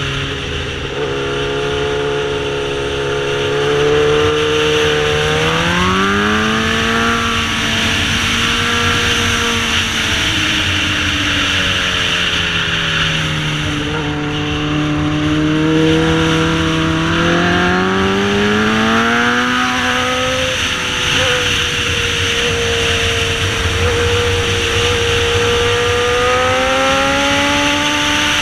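Sportbike engine under way, its pitch climbing several times as it accelerates and sinking in between as the throttle eases, over a steady rushing noise.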